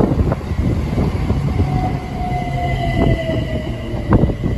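Great Northern electric multiple unit running slowly into the platform: a low rumble of wheels on rail with a few sharp clanks, a wheel squeal that glides slightly down in pitch through the middle, and a thin high whine.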